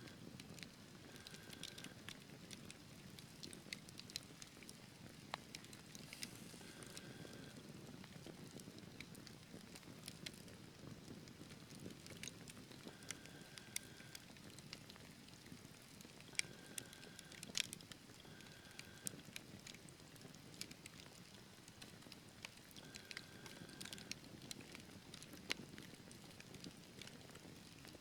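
Wood fire burning faintly: a low steady rush of flames with scattered sharp crackles and pops, two of them louder about two-thirds of the way through.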